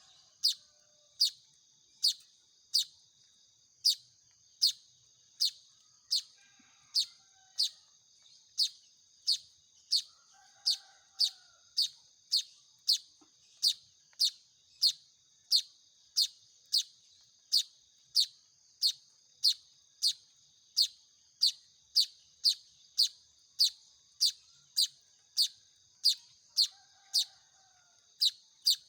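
Young manyar (weaver bird) chick calling: one short, high chirp repeated at a steady pace, about three every two seconds.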